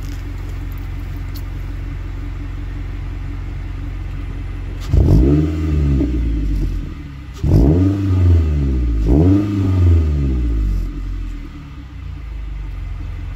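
2015 Scion tC's 2.5-litre four-cylinder engine idling through a new Borla S-Type aftermarket exhaust, then revved three times about five seconds in, each rev rising and falling back before settling to idle. The exhaust note is throatier than stock.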